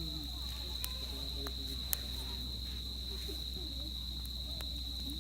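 Crickets trilling in one steady high tone, with a few sharp pops from a crackling wood campfire, the loudest about two seconds in.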